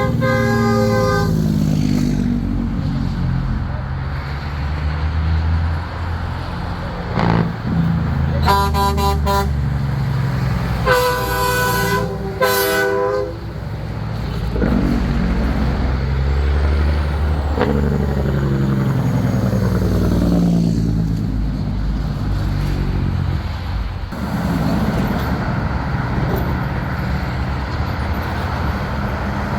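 Semi-truck diesel engines rumbling past, their pitch rising and falling as trucks go by, with air horns sounding: a chord cuts off about a second in, a short blast comes about a third of the way through, and a longer one follows a couple of seconds later.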